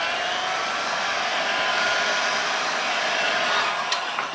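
A handheld hot-air blower running with a steady rush of air and motor whine, warming the adhesive that holds a plastic strip to a laptop screen. Near the end it is switched off and its whine falls away.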